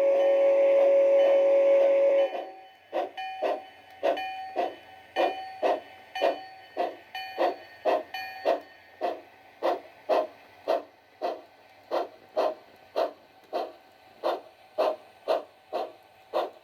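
A G-scale Bachmann Climax model locomotive's onboard DCC sound system blows a long steam whistle, which cuts off about two seconds in. It is followed by steady steam exhaust chuffs at about two a second.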